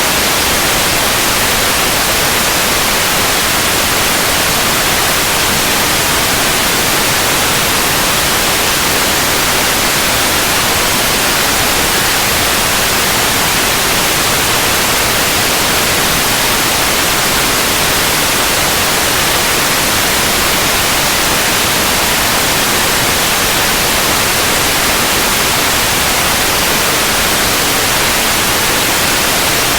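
Continuous synthetic white noise: a steady, even hiss, loudest in the high frequencies, with no change.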